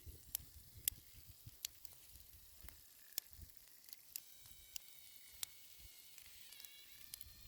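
Faint, irregular crackling and ticking of dry Ural blue clay cracking and splitting apart as it soaks up water.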